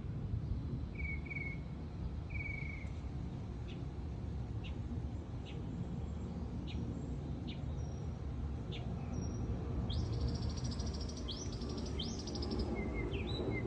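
Wild birds chirping outdoors: short separate chirps, then a fast high trill of song from about ten seconds in, over a steady low background rumble.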